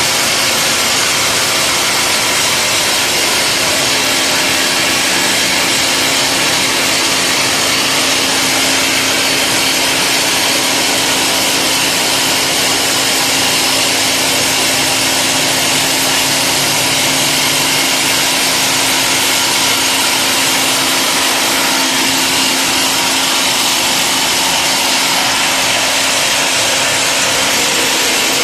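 Epiroc Simba S7D top-hammer rock drill drilling a long blast hole with a 64 mm bit on T-38 rods: a loud, unbroken hammering din over a constant mechanical hum.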